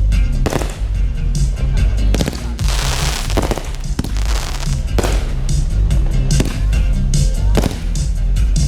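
Fireworks display: aerial shells bursting in a series of sharp bangs, a few seconds apart, with a spell of dense crackling about three seconds in. Music plays steadily underneath.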